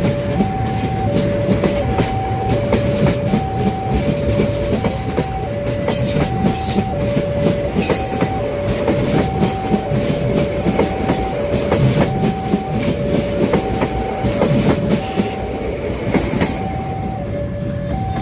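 Passenger train coaches rolling past close by: a steady rumble with wheel clatter over the rail joints, easing near the end as the last coach goes by. A level crossing alarm sounds throughout, taking turns between a higher and a lower tone, each short and about three-quarters of a second apart.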